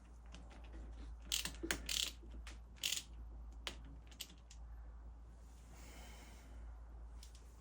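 Small metal parts and tools clicking and clinking as they are handled during motorcycle engine work: a handful of sharp clicks in the first four seconds, then a brief soft rasp about six seconds in.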